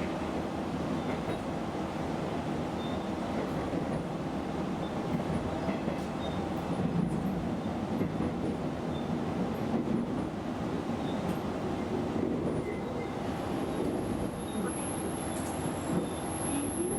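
Yuri Kogen Railway diesel railcar running slowly along the line, a steady rumble of engine and wheels on rail heard from inside the car. About three-quarters of the way through, a thin high-pitched tone joins it.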